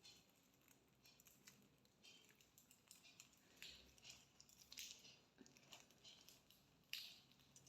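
Near silence: quiet room tone with faint, irregular small clicks and rustles, a slightly louder click about seven seconds in.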